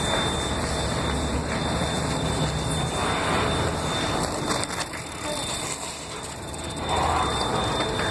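Bicycle being ridden, with a steady rumble of wind on the microphone; it eases for a moment past the middle and picks up again near the end.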